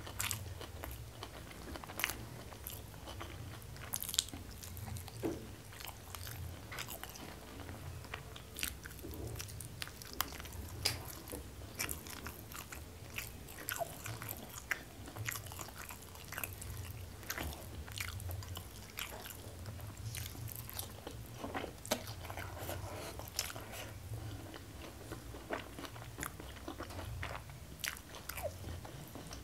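Close-miked eating sounds: steady chewing of a hand-fed mouthful of rice, boiled greens and fried fish, with frequent sharp wet smacks and clicks of the lips and mouth and occasional crunches.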